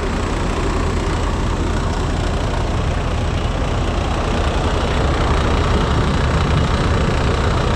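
Heavy truck diesel engine idling steadily, a low even hum.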